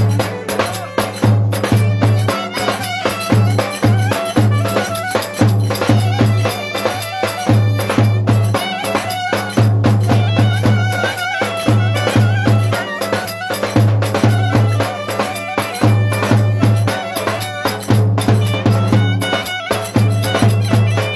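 Turkish folk dance music played by a band, with a melody line over a steady, pulsing bass beat.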